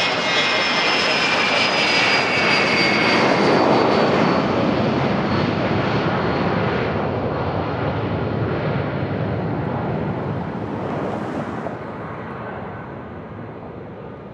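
A private jet's turbofan engines passing close by on the runway. The engine whine falls in pitch as it goes past, grows loudest about four seconds in, then fades away.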